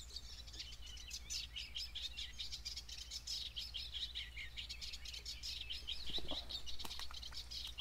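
Small birds chirping and singing: a busy, unbroken stream of short high notes.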